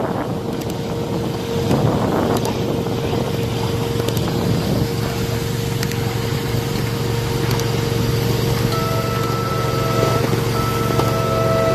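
Steady running rumble and hum of a 1/8 scale miniature railroad train riding on 7½-inch gauge track, with a steady tone through it. About nine seconds in, a pitched sound in held notes with short breaks starts over the rumble.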